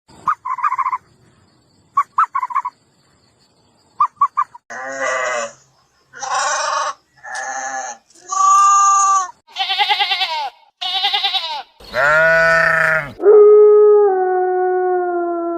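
A series of animal calls: a few short pulsed calls, then about eight separate pitched calls, each under a second long. These are followed by a long call that starts about 13 seconds in and slowly falls in pitch.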